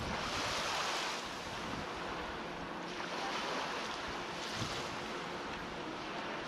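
Water rushing and splashing past a boat's hull under way, in surges every second or two, with wind buffeting the microphone.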